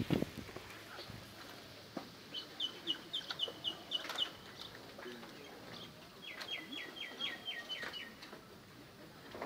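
A small bird singing two quick trills of short repeated high notes, each about two seconds long, the notes of the second trill sliding down in pitch.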